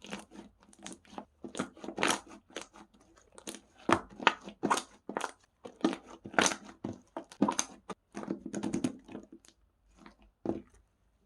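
Strawberry slime being squished and pressed by hand: an irregular run of short crackling squishes and air pops, stopping about a second before the end.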